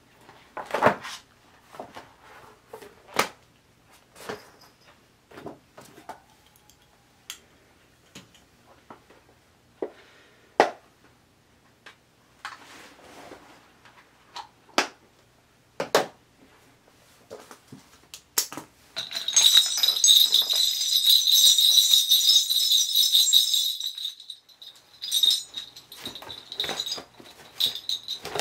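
Scattered light clicks and knocks of objects being handled. About two-thirds of the way in, a shaman's cluster of small bells (a bell rattle) starts being shaken in a steady jingle. It breaks off briefly and starts again near the end, as the spirits are called.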